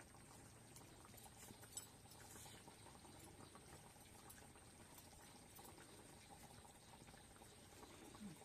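Faint bubbling of a pot of food simmering, with scattered soft pops.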